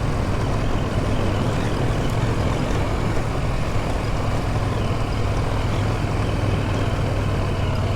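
Adventure motorcycle being ridden at a steady pace, its engine running with an even, unchanging note over wind and tyre noise.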